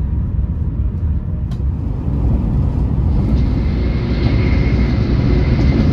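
KTX-Cheongryong high-speed train running at speed, heard from inside the passenger cabin: a steady low rumble. About halfway through, a hiss and a faint steady high whine join in.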